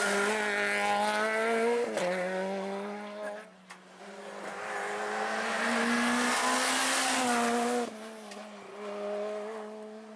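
Rally car engine at high revs on a stage, with a short lift off the throttle about two seconds in and a dip near four seconds. It pulls loud again until the revs cut off abruptly near eight seconds, then runs on more quietly.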